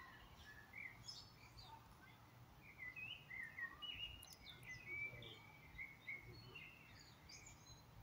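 Faint small-bird chirps and twitters, scattered short calls that come thickest in the middle stretch, over quiet outdoor background noise with a faint steady low hum.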